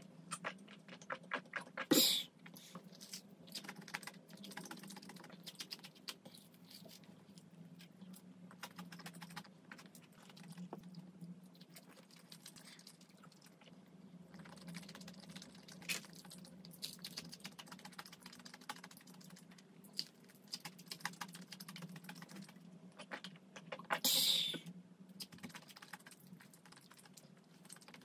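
Close-miked eating: a person chewing food, with many small crisp clicks from the mouth and a steady low hum underneath. Two louder sharp sounds stand out, one about two seconds in and one near the end.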